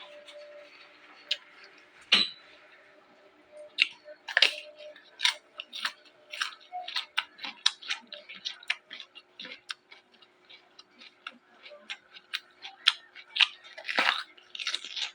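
Close-up crunching and chewing of raw vegetables, a rapid irregular run of crisp crackles, sparse at first and coming thick and fast from about four seconds in.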